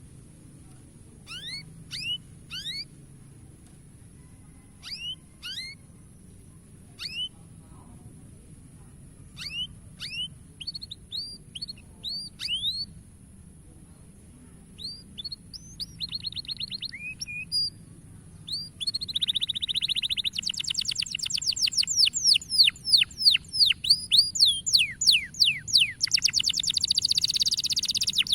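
Domestic canary singing: spaced-out short, down-slurred chirps at first, then, about two-thirds of the way in, a fast, louder rolling trill of rapid downward-sweeping notes.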